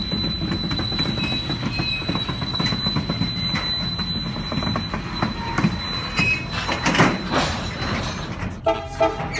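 Diesel locomotive shoving freight cars slowly along a siding: steady rumble of the rolling train with a thin, high wheel squeal, and a few knocks about seven seconds in. Near the end comes a short, choppy pitched sound.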